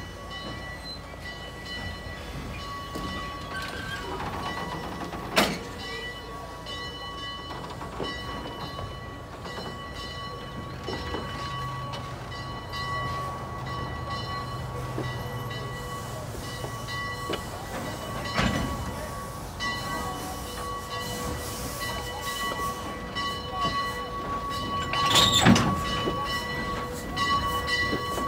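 Steam excursion train rolling slowly past on the rails, with a steady high ringing from the wheels and track. Sharp clanks come about five seconds in and again around eighteen seconds, and a louder one comes near the end as the locomotive approaches.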